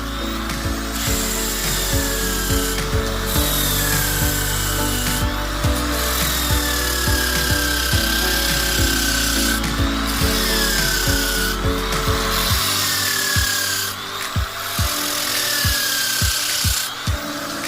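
Electric hand drill fitted with a sanding disc, grinding against wood. The motor's whine drops in pitch each time the disc bears on the work, and the grinding stops briefly every few seconds as it is lifted. Background music with a steady beat plays underneath.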